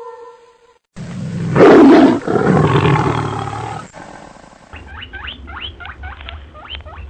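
A tiger roaring, starting about a second in and lasting about three seconds, loudest near its start. It is followed by a run of short rising chirps, about four a second.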